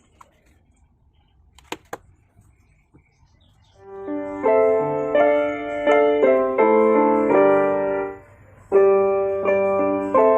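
A few faint clicks, then piano music in full chords starting about four seconds in, breaking off briefly near the end before resuming.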